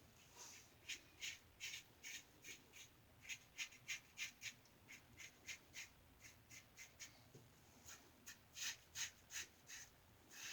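3D-printed injector-style razor with a Schick injector blade scraping through lathered stubble in short strokes, about three a second, with a brief pause a little past the middle.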